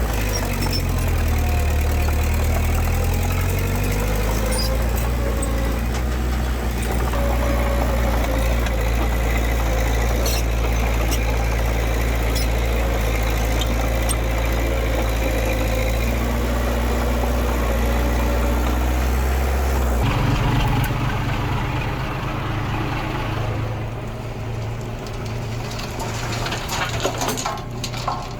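Diesel engine of heavy earthmoving machinery running steadily with a deep rumble. About 20 seconds in the low rumble drops away and the sound thins out, with a few sharp cracks near the end.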